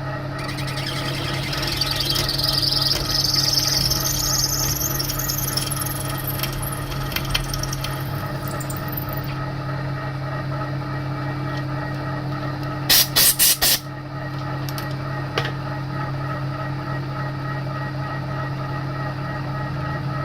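Milling machine spindle running steadily while a twist drill squeals as it cuts into a snapped stainless steel exhaust stud, the squeal rising in pitch and stopping about nine seconds in. About four sharp clacks in quick succession around thirteen seconds.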